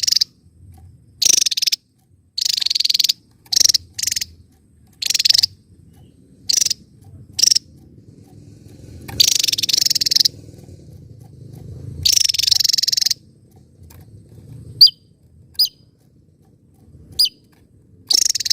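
Small songbird giving short, harsh, rattling bursts at irregular intervals, a few of them about a second long. In the last few seconds it switches to three or four thin, sharp whistled notes.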